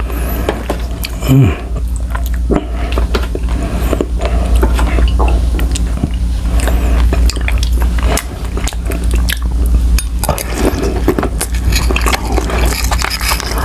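Close-up mouth sounds of a person eating soft cooked tuna roe in adobo sauce: wet chewing, lip smacks and many small irregular clicks, over a steady low hum.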